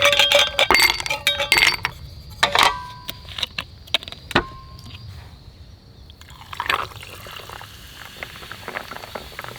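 Ice clinking against a drinking glass: a quick flurry of clinks with short ringing notes, then sparser knocks. Liquid is then poured, a soft steady hiss with scattered ticks.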